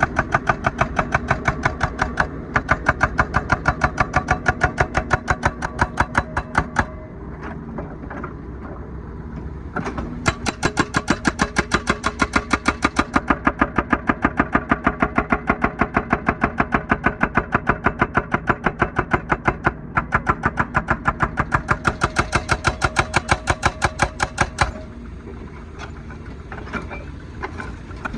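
Hydraulic breaker on a wheeled excavator hammering asphalt: a rapid, steady stream of blows in long runs. The runs stop about seven seconds in, start again about three seconds later, break briefly, and stop near the end. The excavator's diesel engine runs on underneath and is left on its own in the pauses.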